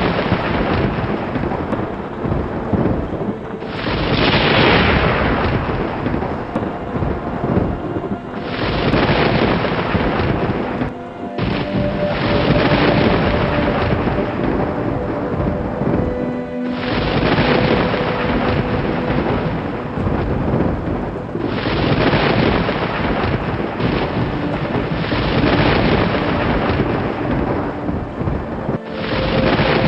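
Thunderstorm: thunder claps breaking sharply every few seconds and rumbling away, over steady rain, with soft music underneath.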